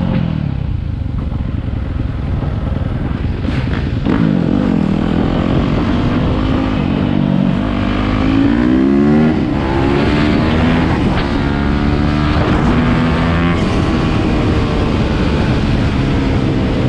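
Several motorcycle engines revving and riding by at once, their pitch repeatedly climbing and dropping.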